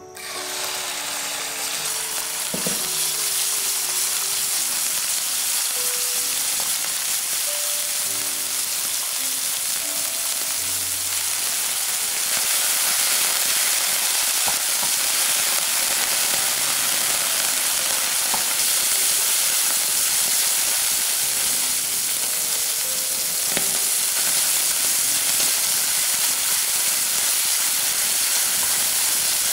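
Sliced meat sizzling in hot oil in a nonstick pan: the sizzle starts suddenly as the meat drops in, then holds steady as it is stir-fried.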